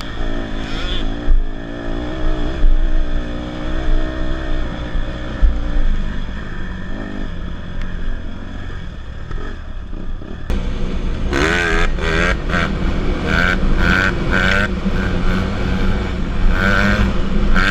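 Dirt bike engine running, its pitch rising and falling with the throttle. About ten seconds in, the sound changes abruptly and uneven stuttering sounds follow.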